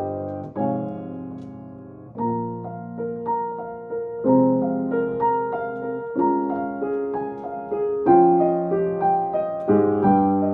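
Yamaha piano played solo in a slow, improvised modern-classical style. One chord rings and fades, then about two seconds in a gentle melody of notes, about two a second, moves over held chords.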